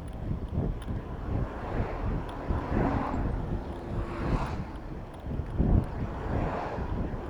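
Motor traffic passing close by in several swells, over a steady rumble of wind buffeting the microphone of a moving bicycle.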